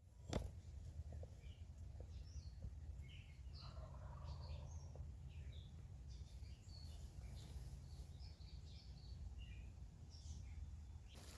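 Faint songbirds chirping in short scattered calls over a low steady rumble of background noise, with one sharp click about half a second in.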